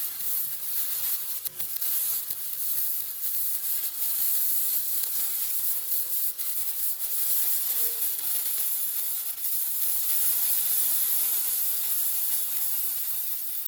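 Steady hissing noise, strongest in the highest pitches, with small crackles and flutters through it; it cuts off suddenly at the end.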